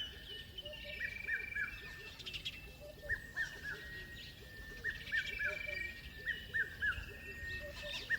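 Several birds calling. One repeats a quick run of three or four short falling notes about every second and a half, while others whistle and trill higher, over a steady high tone.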